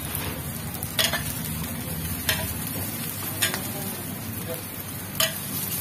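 Parottas sizzling in oil on a flat-top griddle, a steady frying hiss. Four sharp clicks come through it at irregular intervals.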